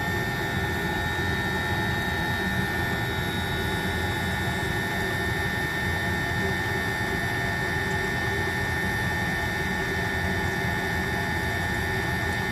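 Diesel-fired coolant heater running steadily at burn, a constant rushing noise with a thin steady whine over it.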